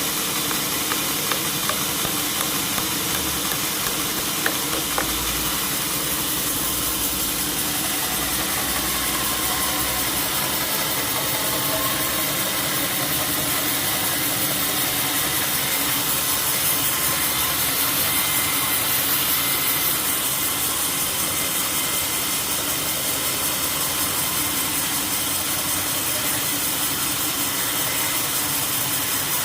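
Sawmill machinery running steadily, a continuous motor drone with a hiss over it. There are a few sharp ticks in the first few seconds and a slight swell in level about two-thirds of the way through.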